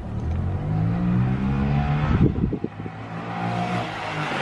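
Honda Grom's small single-cylinder engine running and being revved, its pitch rising over the first two seconds, then falling back and holding steadier before fading.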